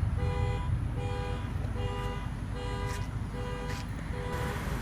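Car horn sounding in short two-tone blasts, about six in a row at a steady pace of a little more than one a second, the repeating pattern of a car's panic alarm set off from the key remote. The blasts stop near the end.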